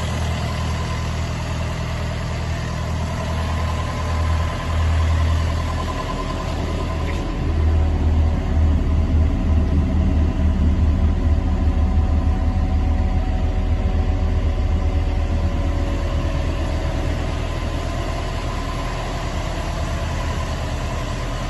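2016 John Deere 50G mini excavator's diesel engine running steadily, getting louder and more pulsing for several seconds in the middle, then settling back.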